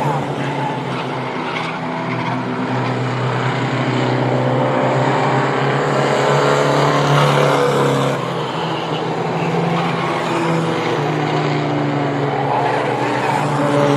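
Race trucks in the Mighty Trucks division running together on a short oval. Several engines overlap, their pitch rising and falling as the pack goes by.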